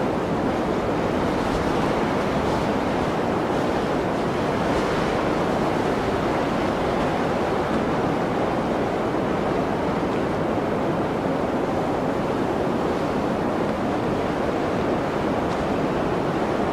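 Blizzard wind: a steady, even rushing noise with no gust or lull standing out.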